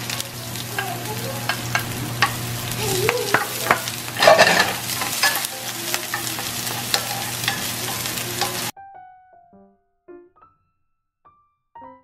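Chopped onion and garlic sizzling in oil in a frying pan while a wooden spoon stirs and taps against the pan, with a louder burst of sizzle about four seconds in. Near the end the sizzling cuts off suddenly, leaving a few soft musical notes.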